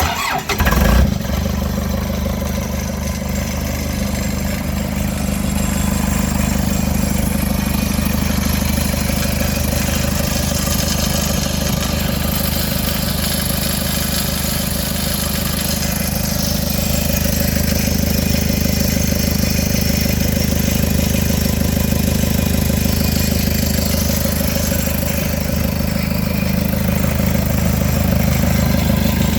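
John Deere 4045 four-cylinder diesel catching on a cold start at about 25°F, flaring up about a second in, then settling into a steady idle.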